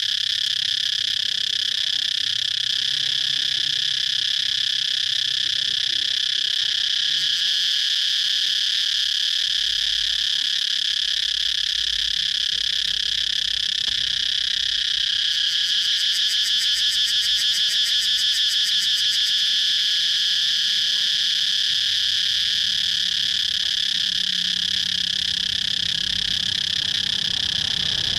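Cicadas calling in a continuous high-pitched drone. About halfway through, a rapid pulsing call joins in for a few seconds.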